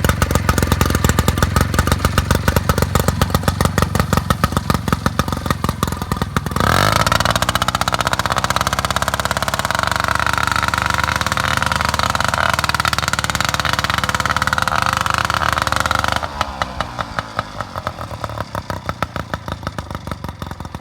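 Small engine running with a fast, even pulsing beat. About six and a half seconds in it suddenly revs up and holds high revs for about ten seconds, then drops back to a lower pulsing run that fades near the end.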